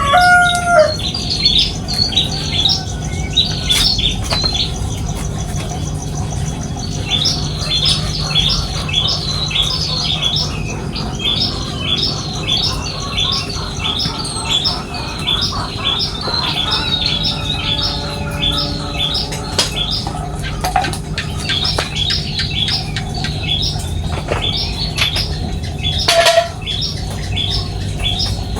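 Small pipit birds chirping in a steady run of short, high calls, about two or three a second, with a rooster's crow trailing off in the first second.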